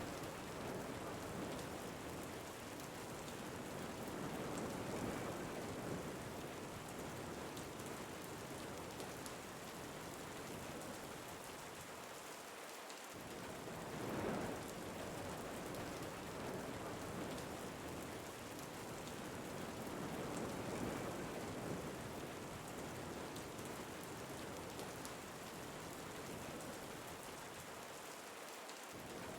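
Steady rain falling, with wind swelling and easing in slow gusts every several seconds.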